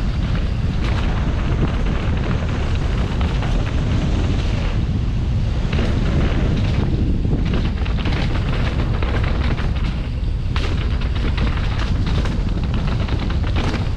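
Strong wind buffeting a GoPro microphone in a steady low rumble. Through it come many short knocks and rattles, most likely from a mountain bike running over a rough trail.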